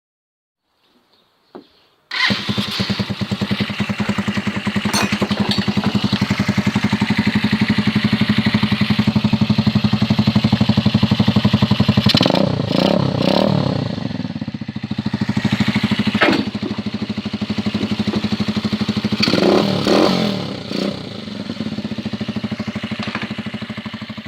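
125 cc Hoolister bobber motorcycle started about two seconds in and idling through its newly fitted aftermarket silencer, with a steady pulsing exhaust note. The throttle is blipped twice, around the middle and again later.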